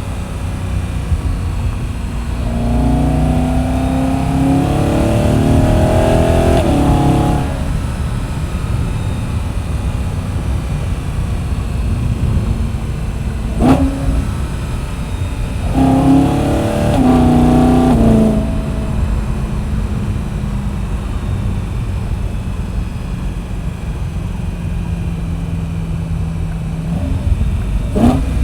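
BMW E92 M3's V8 through an M Performance muffler while driving, with a steady low drone between two accelerations. Its note rises over about four seconds starting some three seconds in, and again for about two seconds around the middle. A sharp click is heard just before the second pull and another near the end.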